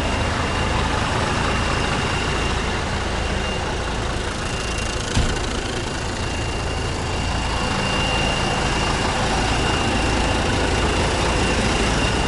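Scania R124-470 truck's diesel engine, a 12-litre straight-six, idling steadily with a faint high whine, and a single brief click about five seconds in.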